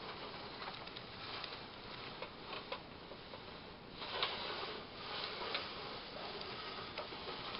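Tinplate friction-driven toy train rolling along metal track: a steady hiss with scattered light clicks, louder from about four seconds in.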